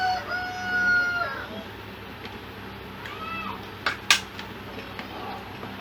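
A rooster's crow ending on a long held note in the first second and a half, then a cat meowing once about three seconds in. Two sharp knocks follow around four seconds in, over a steady low hum.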